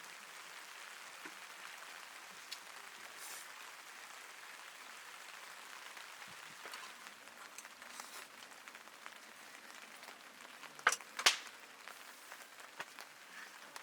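Steady rain falling, with two sharp clicks close together about eleven seconds in.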